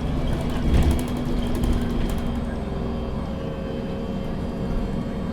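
Inside a MAN NG 313 CNG articulated bus on the move: a steady engine drone over low road rumble, with rattles and knocks in the first two seconds or so.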